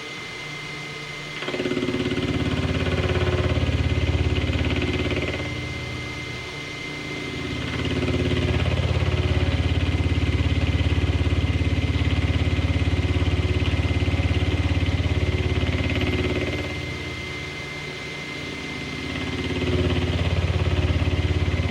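A milling cutter taking passes on a belt-drive PM30 mill: a loud, rhythmic cutting sound three times, each dropping back to the quieter spindle run as the table is brought back between passes, with a steady high whine throughout.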